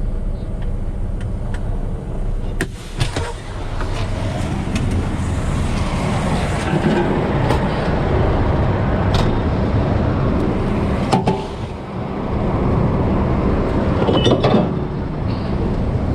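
Heavy truck running, a steady engine and road noise with a few sharp knocks and rattles through it.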